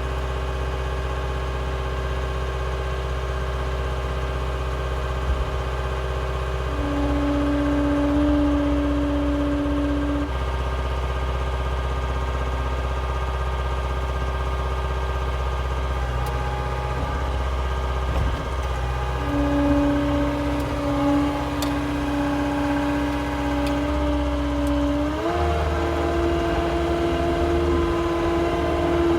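Cat skid steer's diesel engine running steadily, with a whining tone that comes in and drops out, returns, and steps up in pitch near the end.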